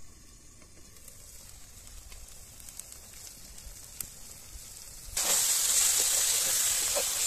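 Faint hiss with a few light clicks, then about five seconds in a loud, steady sizzle starts suddenly: setua (freshwater shellfish) meat and masala frying in the pan.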